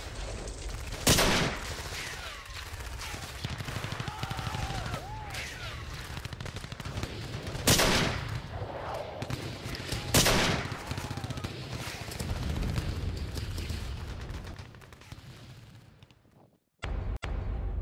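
Gunfire: a steady run of rapid shots, with three much louder single shots about a second in, near eight seconds and near ten seconds. The firing fades away towards the end.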